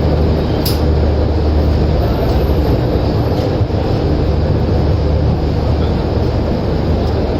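Passenger express train running along the track: a steady, heavy rumble of wheels and coach, with a sharp click under a second in.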